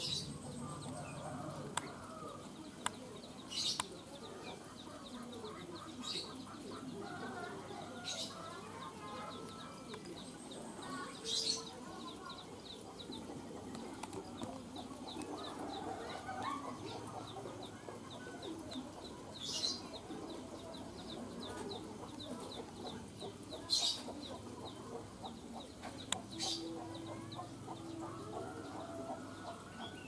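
Small aviary birds calling: a short, sharp high chirp every few seconds over a continuous chatter of lower calls.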